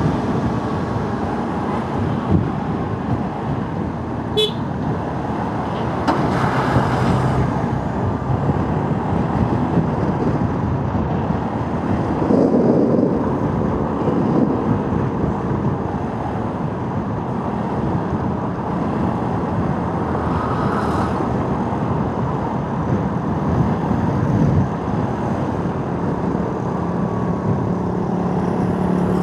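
Motorcycle riding through city traffic: a steady mix of engine, wind and tyre noise, with other vehicles running alongside.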